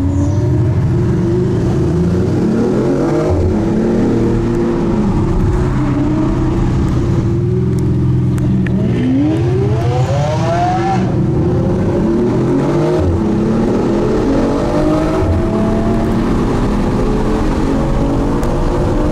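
Sports car engines accelerating hard, the revs rising and falling through several gear changes, with one steep climb in revs about halfway through.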